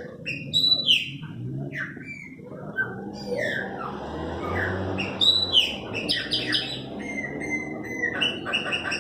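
Chopi blackbirds (pássaro-preto) singing: a run of loud, clear whistled notes that sweep up and down, ending in quick repeated notes. A low rumble sits underneath in the middle.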